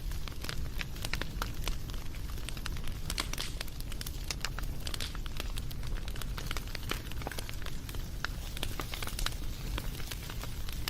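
Wood fire crackling: dense irregular pops and snaps over a steady low rumble of the flames.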